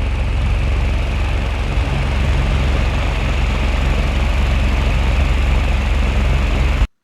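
Small electric fan running steadily, then cutting off abruptly near the end.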